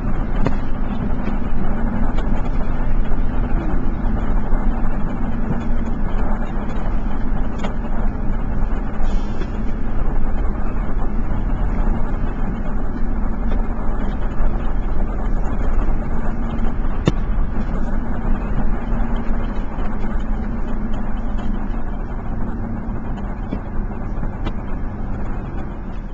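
Steady motor-vehicle engine and road noise, a continuous low rumble with a constant hum. A single sharp click sounds a little after the middle.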